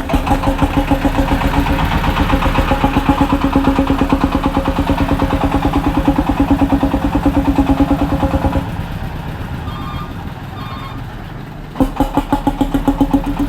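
Modified rice-milling machine running with a fast, regular pulsing beat over a steady hum. About nine seconds in the pulsing eases to a quieter, steadier run, then it returns near the end.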